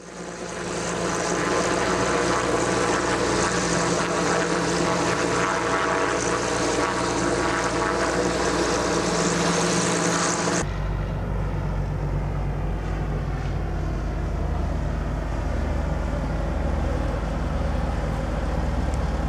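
Zeppelin NT airship's propeller engines running steadily with a loud drone. About ten seconds in the sound changes abruptly to a deeper, duller drone.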